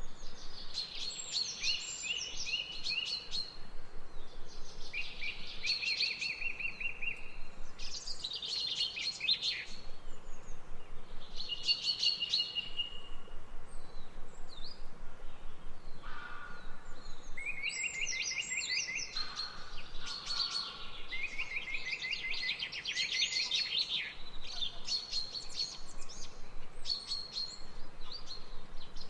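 Songbirds singing, with short phrases and fast trills repeating every second or two throughout, some overlapping, over a faint steady background hiss.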